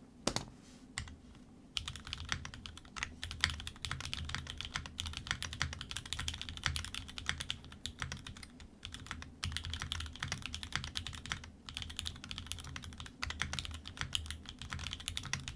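Typing on a Ramaworks Thermal mechanical keyboard with lubed, filmed Cherry Hyperglide switches and GMK Striker keycaps: a dense run of keystroke clacks. A few single keypresses come first, then continuous fast typing from about two seconds in, with a couple of brief pauses.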